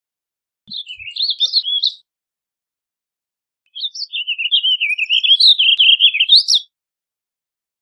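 Warbling vireo singing: two rapid, swooping warbled song phrases, a short one about a second in and a longer one of about three seconds starting near the middle.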